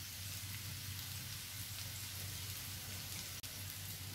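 Ivy gourd and onions frying in mustard oil in a shallow non-stick pan: a steady, soft sizzle with a low hum beneath it.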